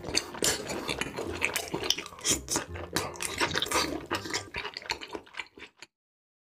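Close-miked wet chewing of spicy octopus and noodles, a dense run of small clicks and squishing mouth sounds. It cuts off suddenly near the end.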